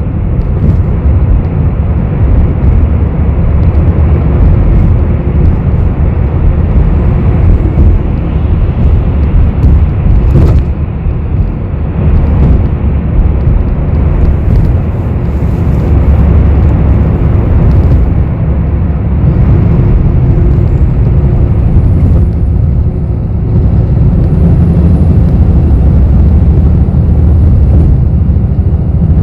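Bus cabin noise from inside a bus: a steady, loud low rumble of the engine and running gear, with a single sharp click about ten seconds in and a faint thin high whine in the second half.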